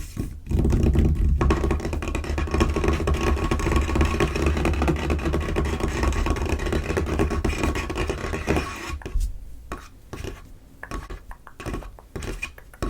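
Fingers scratching and scurrying rapidly over a table top, a dense continuous scraping for about eight seconds, then breaking up into separate quick taps near the end.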